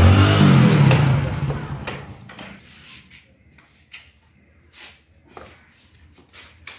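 A Hero motorcycle's single-cylinder engine running as the bike pulls up, fading out about two seconds in; then a few light clicks and knocks.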